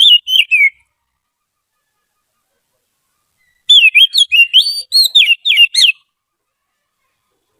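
Oriental magpie-robin singing. A phrase of whistled notes ends in the first second, and after about three seconds of silence a fast two-second phrase of rising and falling whistles follows.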